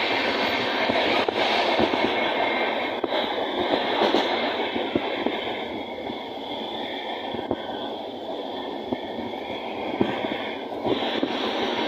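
Passenger train running at speed, heard through an open, barred coach window: a steady rushing rumble of wheels on the rails with scattered sharp clicks. It is loud at first, eases off about halfway, and grows louder again near the end.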